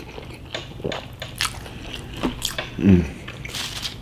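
A person chewing a mouthful of palabok, rice noodles in shrimp sauce: wet, squishy mouth sounds with small clicks, and a short hummed "mm" about three seconds in.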